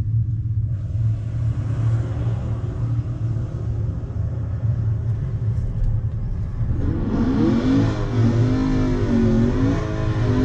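Steady low hum of an idling SUV heard inside its cabin, with a broad rushing noise from about a second in. About seven seconds in, a Chevrolet Camaro's engine revs up and holds high, wavering revs: a burnout to heat its tyres before a drag race.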